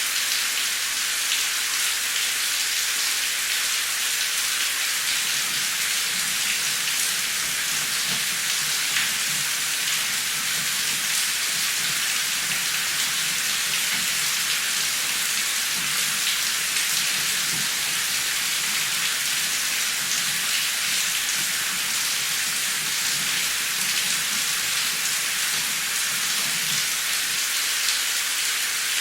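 Steady heavy rain falling, an even hiss of many drops, with a faint low rumble through the middle.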